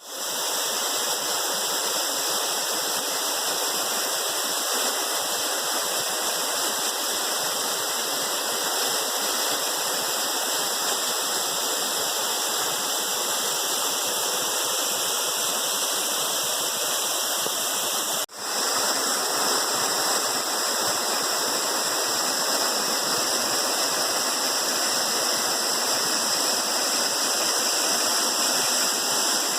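Waterfall rushing steadily, a constant roar of falling water, with a momentary break about two-thirds of the way through.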